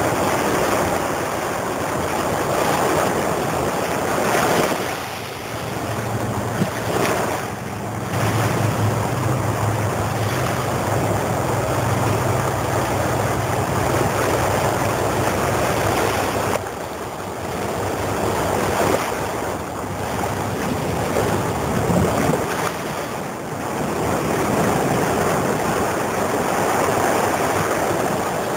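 Pacific Ocean surf washing ashore in slow swells, with wind buffeting the microphone. A low steady hum sits under the surf for a stretch in the middle.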